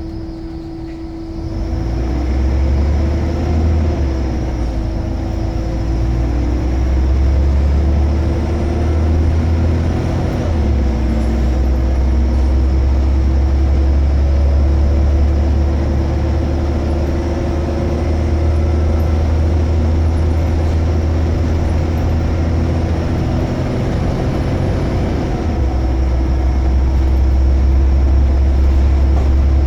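Scania L94UB Omnicity bus's diesel engine running under way. It picks up about a second and a half in and holds a steady low drone with a constant whine above it. Its note changes around ten seconds in and again near the end.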